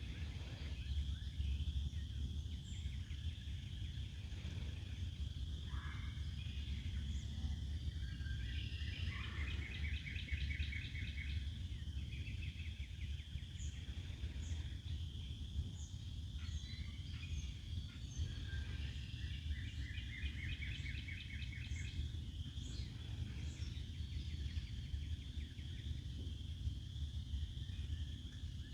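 Woodland birds singing: a rapid trilled song recurs about every ten seconds among short high chirps, over a steady high-pitched background chorus and a constant low rumble.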